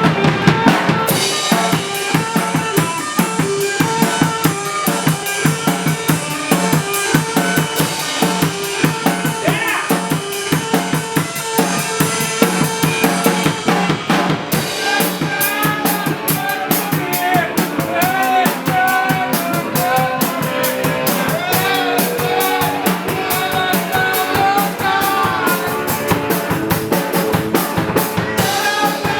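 Music with a drum kit playing a steady beat on snare and bass drum, together with other pitched instruments. About halfway through, the texture changes and a wavering melody line comes in over the drums.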